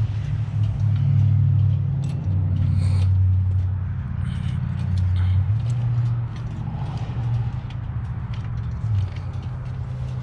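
Go-kart's small engine running under a driver, its low drone shifting up and down in pitch as the throttle is worked.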